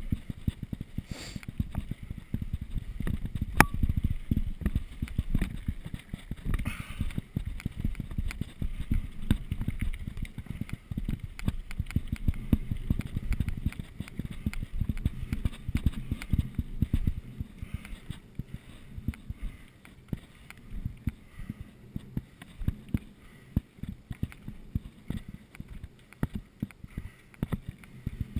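Bicycle rattling and jolting over a rough downhill track: a steady clatter of small knocks and bumps with low rumble, and one sharp click about three and a half seconds in.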